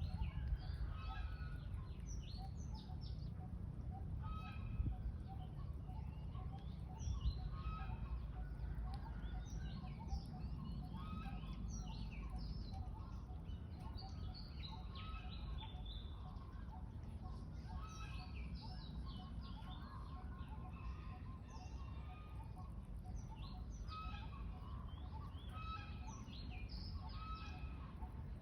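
Birds chirping repeatedly in short calls throughout, over a steady low rumble.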